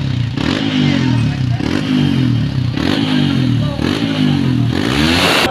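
Honda CRF motorcycle engine with its stock muffler being blipped, revving up and dropping back about five times, roughly once a second, during tuning of a freshly remapped ECU.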